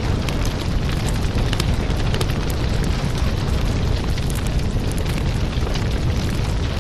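Fireplace ambience: a wood fire burning with a steady low rumble and frequent sharp crackles and pops.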